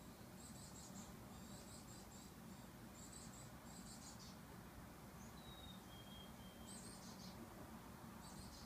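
Chickadees calling faintly: repeated clusters of rapid, high chattering calls every second or two, with a soft two-note whistle stepping down in pitch about midway.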